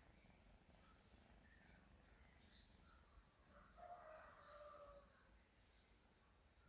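Near silence with faint, repeated bird chirps in the background and one faint drawn-out call about four seconds in.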